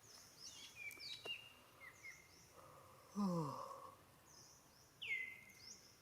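Birds chirping outdoors in short, high, falling calls, with a clearer falling whistle near the end. About three seconds in, the loudest sound comes: a low call that slides downward in pitch.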